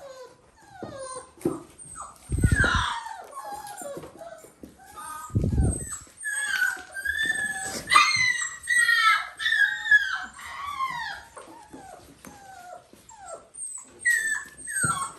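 Dalmatian puppies whining and yelping, a rapid string of short high cries that fall in pitch, several overlapping at once. Two dull thumps come in the first half.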